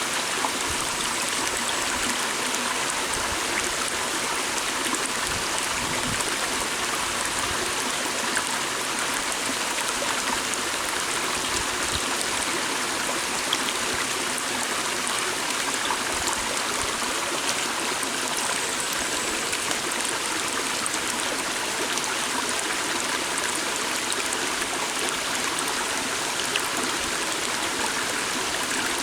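A small stream flowing over stones: a steady rushing, trickling water noise.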